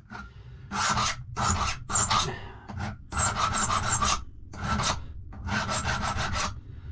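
Hand file rasping back and forth on a metal key held in a vise, in a series of separate strokes about a second apart, cleaning up and finishing a safe-lock key.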